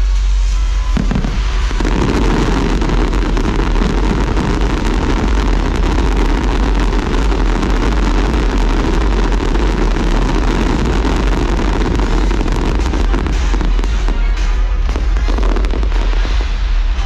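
A fireworks display going off in a dense, continuous barrage of crackles and bursts, thickening about two seconds in, over loud show music.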